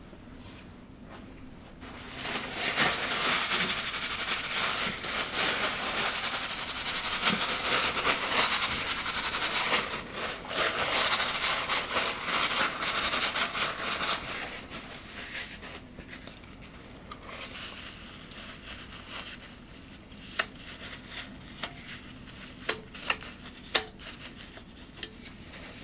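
Close-up crunching of crunchy food being chewed for about twelve seconds, then a few light clicks of cutlery on a plate near the end.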